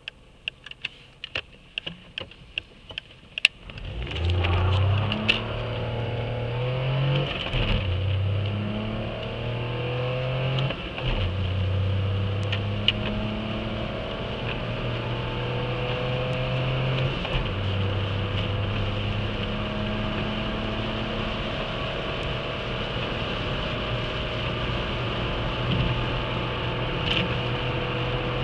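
Škoda Fabia 1.2 HTP's three-cylinder petrol engine accelerating hard from a standstill, heard inside the cabin. The revs climb and drop back at each of three upshifts, then rise slowly in a high gear. A run of light ticks comes first, before the engine note rises about four seconds in.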